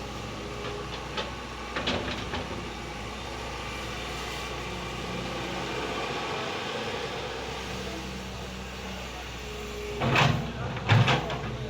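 Excavator's diesel engine running steadily, with a smaller knock about two seconds in and two loud knocks close together near the end.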